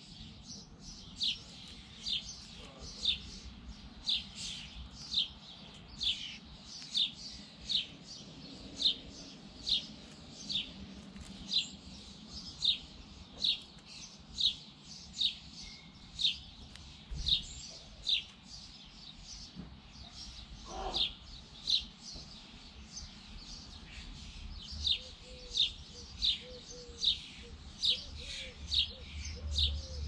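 A small bird chirping over and over in a steady series of short, sharp, slightly falling cheeps, about one or two a second.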